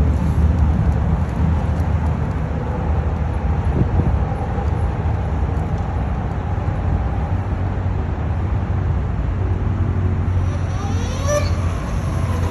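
Harley-Davidson LiveWire electric motorcycle being ridden, its electric motor whine under a steady low wind rumble. Near the end a whine rises and then falls in pitch.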